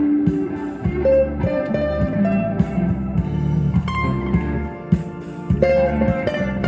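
Electric guitar playing a single-note melody over a pulsing bass part, an instrumental passage of music.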